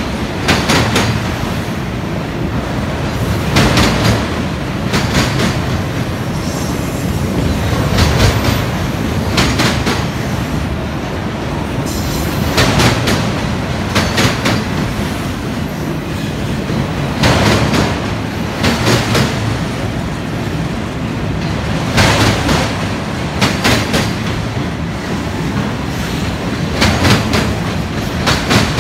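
Union Pacific autorack freight cars rolling past with a steady rumble. The wheels clack over a rail joint in pairs of beats about a second and a half apart, and the pairs come round about every four and a half seconds as each car's trucks pass.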